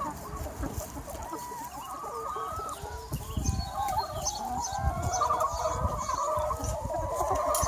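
A large flock of free-range hens clucking and calling over one another in a continuous, overlapping chorus.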